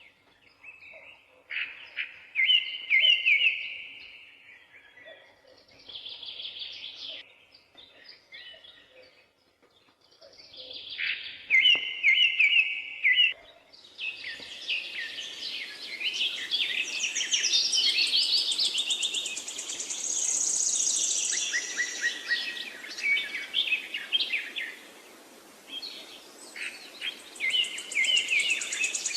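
Songbirds singing, with short repeated phrases and rapid trills. About halfway in, the sound changes abruptly to a denser chorus of several birds over a steady background hiss.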